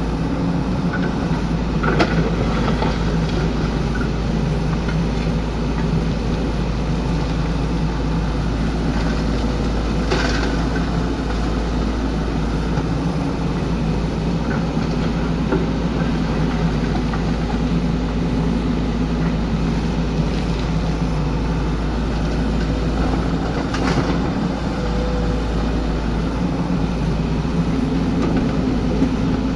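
XCMG excavator's diesel engine running steadily, with a few sharp metallic knocks from the working machine.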